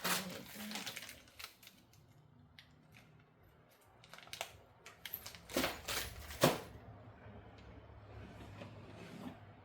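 Clicks, taps and clatter of storage-cart parts being handled and fitted together, with a sharp knock about six and a half seconds in.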